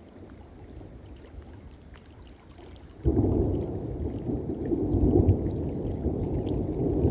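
Thunder: a low rumble that starts abruptly about three seconds in, after a faint hiss, and keeps rolling.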